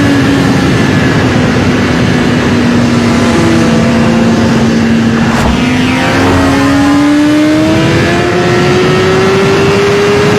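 Motorcycle engine running under way, its pitch sagging slightly and then climbing steadily through the second half as it speeds up, over heavy wind noise on the microphone. About halfway, another vehicle's sound slides past.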